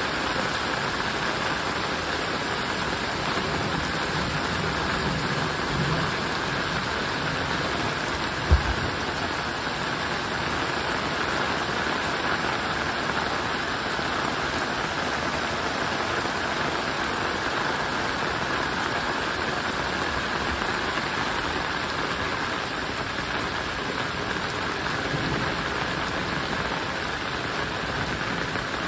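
Heavy rain pouring onto shallow floodwater, a steady hiss of drops splashing on the water's surface. One brief low thump about eight seconds in.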